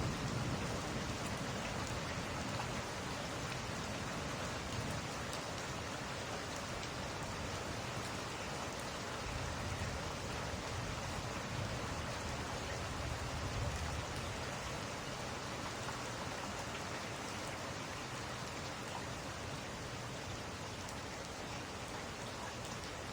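Steady rain falling, with a low rumble of thunder dying away at the start and another rising and falling about ten seconds in.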